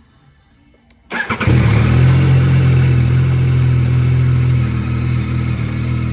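Yamaha XSR900 GP's three-cylinder engine, fitted with an Akrapovic exhaust, is started: the starter cranks briefly about a second in, the engine catches almost at once and settles into a steady idle.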